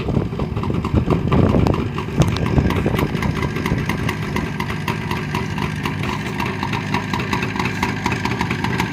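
Jawa 638 motorcycle's two-stroke twin engine running at idle with rapid, even firing pulses and a brief rise in level about a second in.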